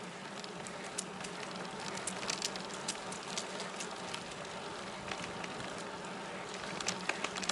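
Bicycle rolling along a trail: a steady rush of tyre and wind noise with a low hum and many irregular small crackles and clicks from the tyres over the trail surface.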